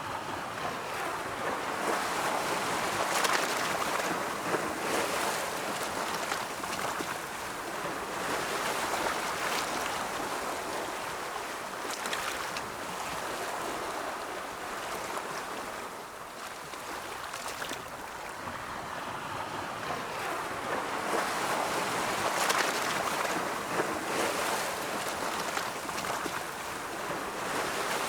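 Ocean waves rolling in and washing back in a steady surf wash that swells and fades slowly, with surges a few seconds in and again about three quarters of the way through.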